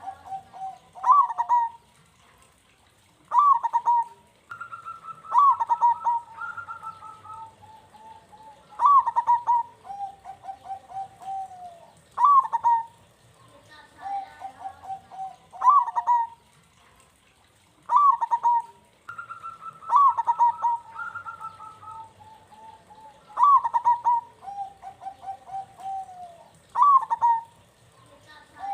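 Zebra dove (perkutut) cooing in full song: a phrase of a few sharp notes followed by a lower rolling trill, repeated about every three to four seconds. Twice a higher-pitched coo overlaps the phrase.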